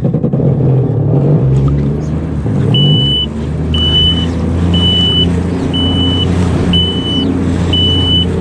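Yamaha WaveRunner jet ski engine running steadily under way. From about three seconds in, a high electronic beep repeats about once a second over the engine.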